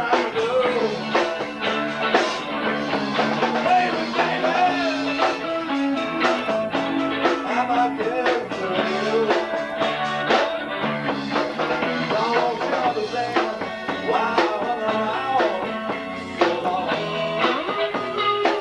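Live rock-blues trio playing: electric guitar, bass guitar and drum kit, with a wavering lead melody line over a steady drum beat.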